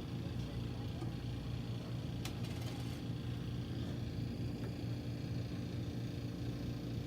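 Steady low machinery hum in the background, with one light click a little over two seconds in.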